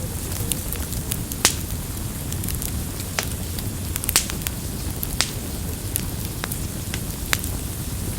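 Campfire burning: a steady low rumble of flames with sharp crackles and pops of burning wood at irregular moments, the loudest pops about one and a half and four seconds in.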